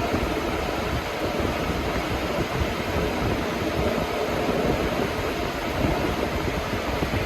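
Two Lasko box fans, a 3723 Premium and a 3720 Weather-Shield, running together: a steady rush of moving air with an uneven low rumble underneath.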